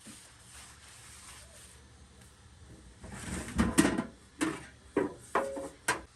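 A soft rustle, then about six sharp knocks and clatters of hard objects being handled over the last three seconds, the loudest about halfway through.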